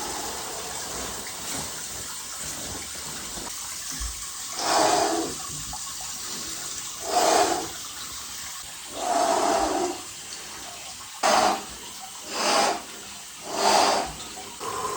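Water trickling and sloshing in a cold plunge, with a person's loud, heavy breaths in the near-freezing water. There are about six forceful exhales, starting about four seconds in and coming every one to two seconds.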